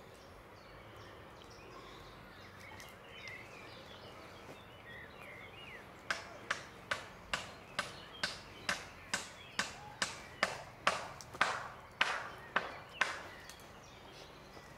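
Footsteps walking across the camp ground: a steady run of about sixteen sharp steps, about two a second, starting about six seconds in and stopping about two seconds before the end. Faint bird chirps come before them.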